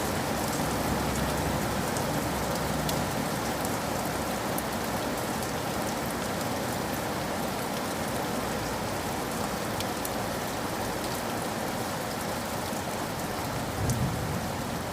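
Steady rain falling, with scattered sharp drop ticks over an even hiss. A brief low rumble comes near the end.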